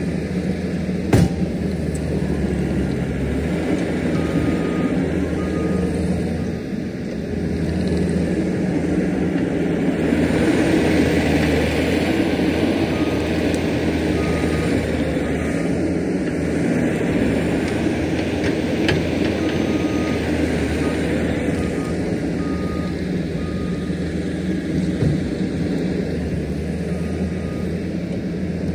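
Diesel engine of heavy earthmoving equipment running steadily, working harder and louder about ten seconds in, with one sharp knock near the start. A backup alarm beeps in several short runs over it.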